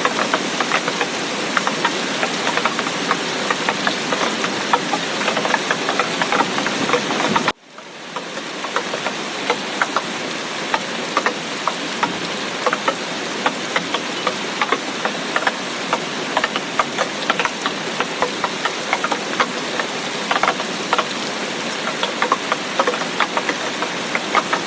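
Heavy tropical rain falling steadily, with many sharp drop hits close by. About seven and a half seconds in the sound cuts out abruptly, then fades back up within a second.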